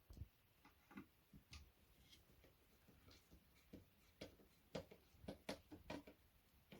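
Faint scattered clicks and taps, bunching up about four to six seconds in: a hand screwdriver and screws being worked loosely into a flat-pack drawer's runners.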